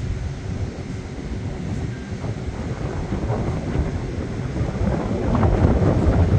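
Wind buffeting the microphone as an uneven low rumble, growing stronger near the end.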